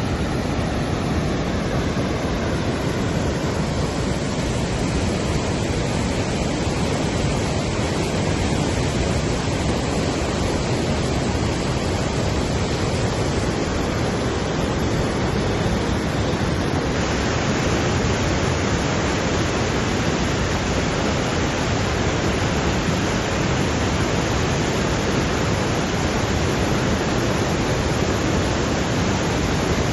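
Steady rush of fast-flowing floodwater. The sound changes slightly about halfway through and grows a little brighter.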